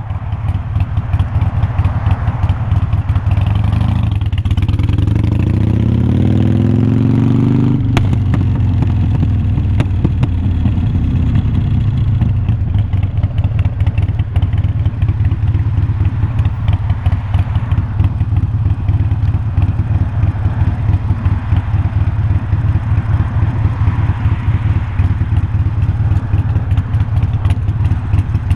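2020 Harley-Davidson Iron 1200's air-cooled 1200 cc V-twin running loud through unbranded glass-pack-style slip-on mufflers. The revs climb from about four seconds in, a sharp click comes at about eight seconds, and then the engine settles into a steady, lumpy, pulsing beat.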